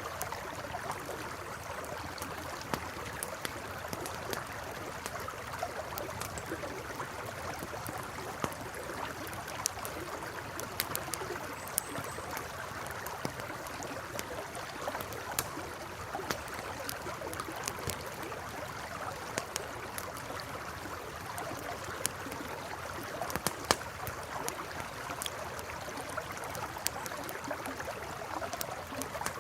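River water flowing steadily, with frequent sharp crackles and pops from a campfire.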